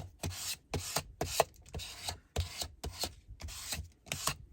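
A scraper tool rubbed across paper to press down freshly glued paper strips: about six rubbing strokes, each under a second, with short pauses between.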